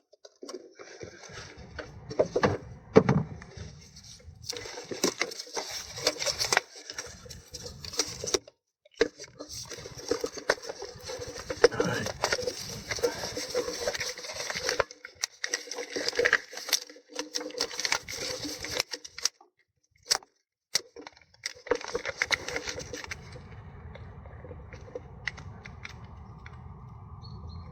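Metal parts and hand tools clicking and clattering in irregular knocks while gearbox actuator parts are handled and set in place. The clatter eases to a faint steady noise near the end.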